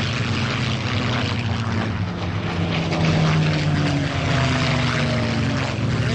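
A formation of P-51 Mustang fighters' V-12 piston engines drones as they pass low. Their pitch falls slowly through the middle of the pass.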